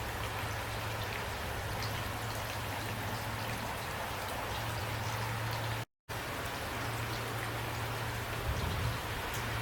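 Steady rain falling, with single drops pattering on a surface; the sound cuts out completely for a split second about six seconds in.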